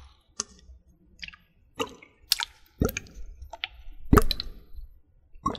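Wet water sounds made by hand: a series of about ten separate plops and squishes. Several loud ones drop quickly in pitch, about three seconds in, a second later and near the end.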